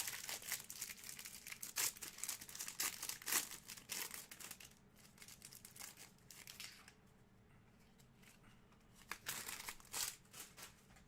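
Plastic trading-card pack wrappers crinkling and tearing as hanger-box packs are ripped open and handled, in a dense run of crackles for about the first five seconds and another short flurry near the end.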